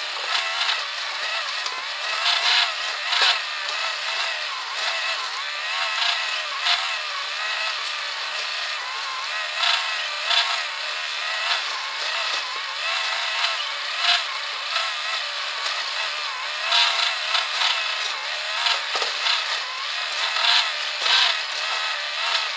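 Small battery-powered electric motor whirring, its pitch wavering, as it drives a cardboard game mechanism, with irregular scraping and clicking from the cardboard parts.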